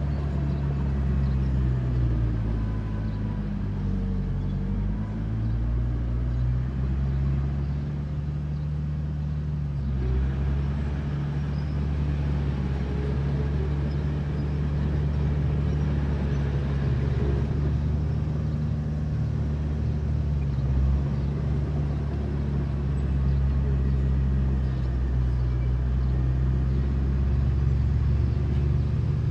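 Heavy diesel engine of earthmoving machinery running steadily under load; its pitch dips and then recovers a few seconds in.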